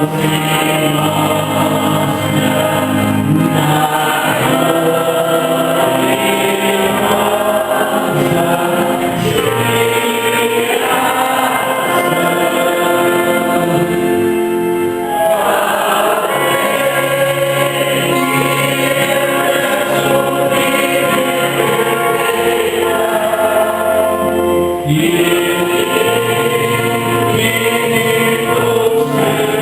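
Church choir singing a liturgical hymn, continuous and full-voiced.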